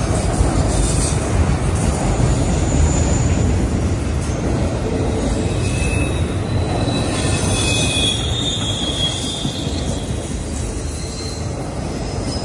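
CSX freight train of autorack cars rolling past, a steady rumble of steel wheels on rail. Short high-pitched wheel squeals come in around the middle, and the rumble eases off slightly near the end.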